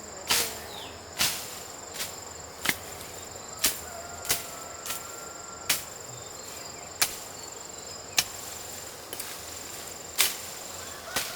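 Repeated sharp chopping strikes, about one a second at uneven intervals, over a steady high-pitched insect drone.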